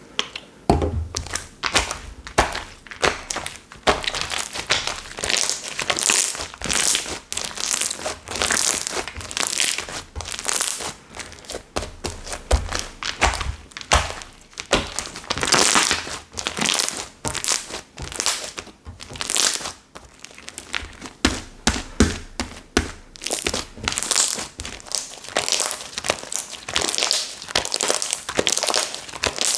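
Soft slime being squeezed, stretched and pressed by hand, giving a dense, irregular run of small sticky pops and crackles with occasional soft thuds.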